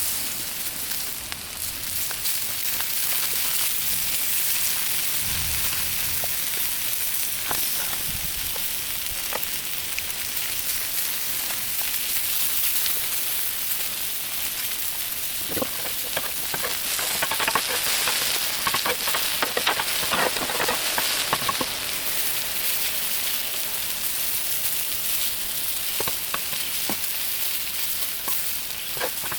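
Red hot dogs, fries in oil and onions in butter sizzling steadily on a Blackstone flat-top griddle, with a few short clicks now and then.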